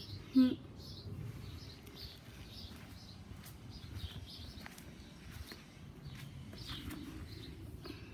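Small birds chirping in the background: short, high calls repeating about twice a second. A brief human voice sounds about half a second in.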